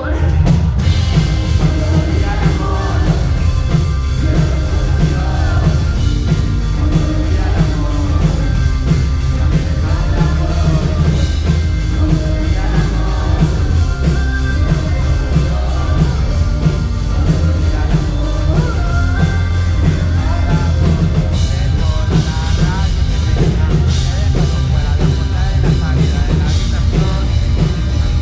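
Live rock music played loudly by a band, with a drum kit and heavy bass driving a steady beat.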